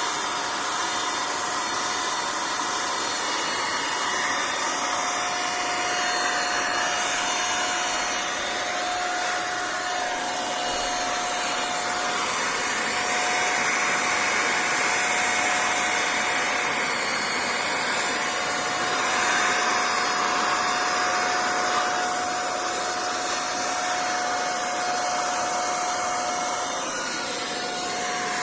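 A small motor running steadily: a rushing noise with a constant high whine that comes in about a second in and stops near the end.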